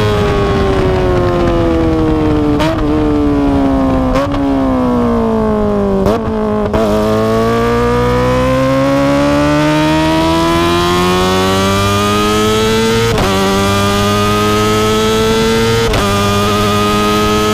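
Kawasaki ZX-25R inline-four through an Akrapovic exhaust under way: the revs fall for about six seconds with three downshift blips. Then it accelerates, the pitch climbing steadily, with two upshifts in the second half.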